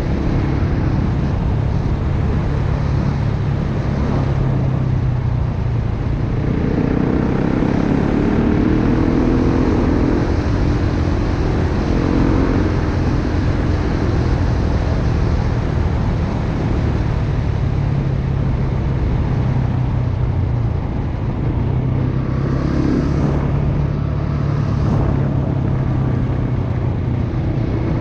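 Dirt bike engine running steadily at riding speed over a rush of wind noise, its note wavering with throttle changes between about six and thirteen seconds in.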